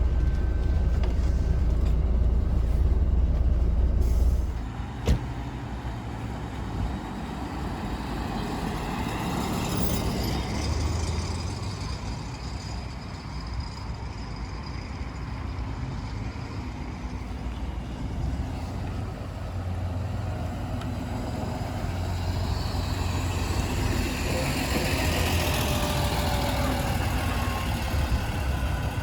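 Mercedes-Benz O307 city bus running, heard from inside the passenger cabin. A loud low drone drops away about four seconds in, followed by a single sharp click, and after that the engine note rises and falls as the bus drives on.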